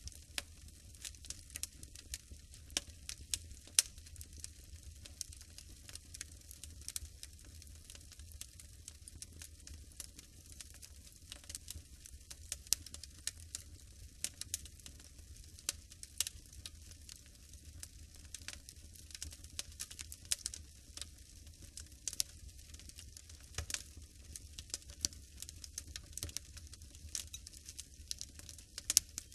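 Wood fire in a fireplace, crackling with frequent sharp, irregular pops and snaps over a faint low hum.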